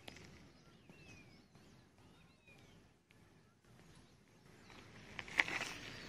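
Faint birds chirping, short whistled notes scattered through. Near the end come a few sharp clicks, the loudest about five and a half seconds in.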